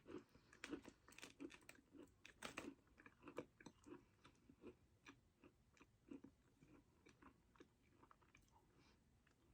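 Faint crunching of a person chewing a very hard sugar cookie, short crunches about twice a second that thin out toward the end.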